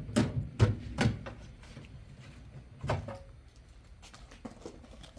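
Several knocks and thuds close together in the first second or so, and one more about three seconds in, followed by faint small clicks.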